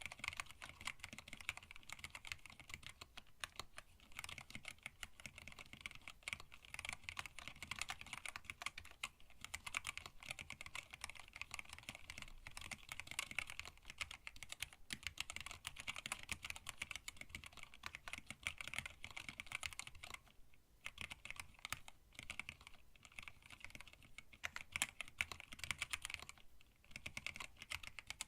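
Continuous typing on a hand-wired split mechanical keyboard with Tealios linear switches, blank PBT keycaps and an acrylic case: a dense, even stream of keystrokes that pauses briefly twice.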